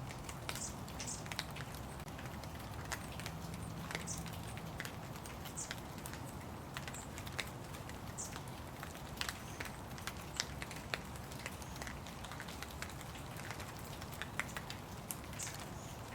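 Steady rain with irregular drops ticking and pattering on nearby surfaces.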